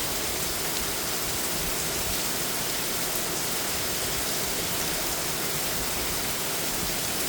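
Heavy downpour: a steady, dense hiss of torrential rain hammering down, with water pouring off the patio roof like a waterfall.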